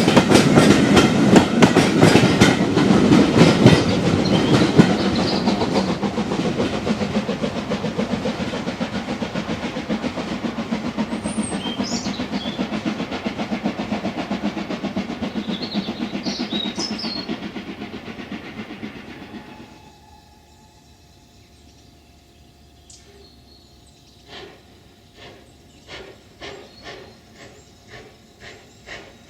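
A train rolling past, its wheels clicking over the rail joints in a rapid clickety-clack. It fades away over about twenty seconds. Near the end a slower, fainter run of wheel clicks starts.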